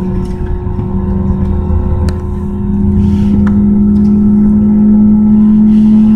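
Engine running with a steady hum, one tone slowly rising in pitch.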